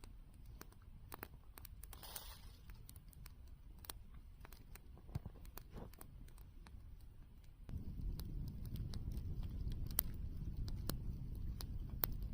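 Campfire crackling, with sharp irregular pops and snaps over a low rumble that grows louder about eight seconds in.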